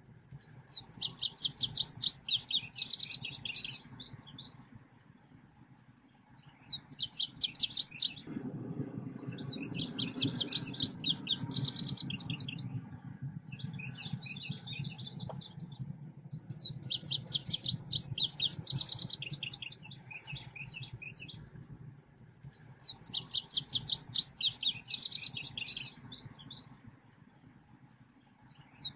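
Selendang biru songbird singing a lure and training call in phrases of rapid, high chirping, each a few seconds long, with short pauses between phrases. A faint low hum runs underneath.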